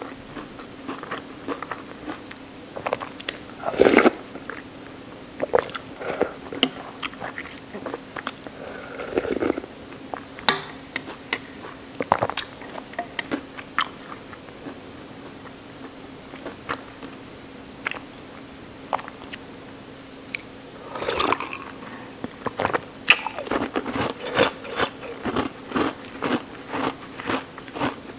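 Close-miked eating sounds from a mouthful of soy sauce ramen noodles: chewing with many short wet mouth clicks and smacks, over a faint steady hum. The clicks come in clusters, with the loudest a few seconds in and a dense run near the end.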